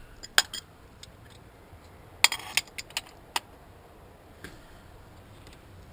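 Scattered sharp metallic clicks and clinks of a wrench and loose engine parts being handled, the loudest cluster a little over two seconds in.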